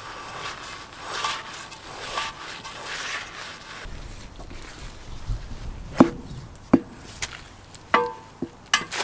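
Tools knocking and clanking against a truck wheel as a tyre is fitted by hand, with a handful of sharp, irregular strikes in the second half, some of them ringing briefly.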